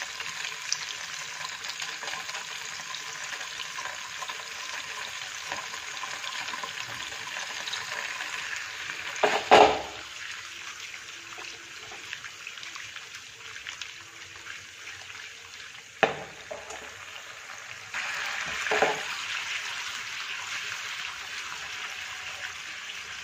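Paneer cubes sizzling steadily in hot desi ghee in a ceramic-coated frying pan, with a few sharp knocks in the pan; the loudest is about nine and a half seconds in, and another comes around sixteen seconds.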